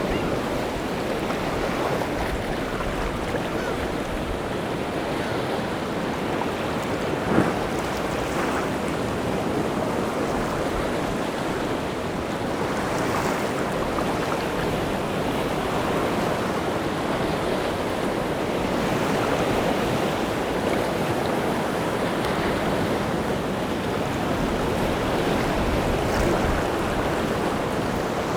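Rough sea surf breaking on the shore in a steady, continuous wash. There is one brief sharp knock about seven seconds in.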